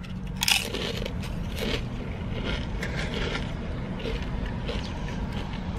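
Crunchy food being bitten and chewed: a crisp crunch about half a second in, another around a second and a half, then fainter crunching as it is chewed, over a steady low hum.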